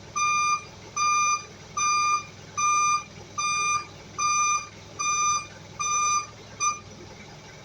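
Electronic warning beeper, like a vehicle's reversing alarm, sounding a steady series of high beeps about half a second long, a little under one a second. After eight beeps it gives a clipped ninth and stops.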